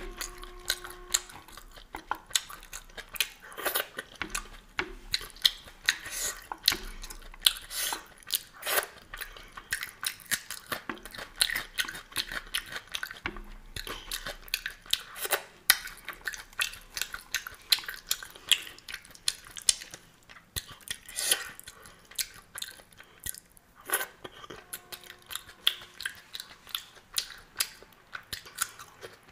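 Close-miked chewing of a person eating spicy ghugni and a fried fritter with her fingers: a dense run of quick, sharp mouth clicks.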